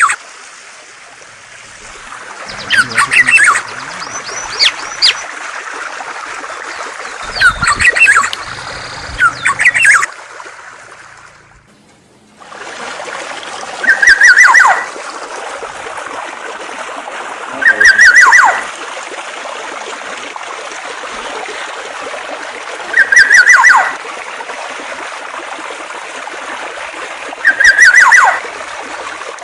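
Songbird calls over a steady hiss of flowing water. After a short break about twelve seconds in, a different phrase starts: a quick high trill dropping into a falling note, repeated four times at even gaps of about four to five seconds.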